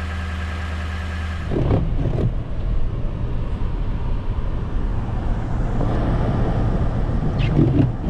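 Truck engine running steadily at idle, then about a second and a half in it changes to a rougher, louder rumble with a few knocks as the truck gets under way on the snowy road.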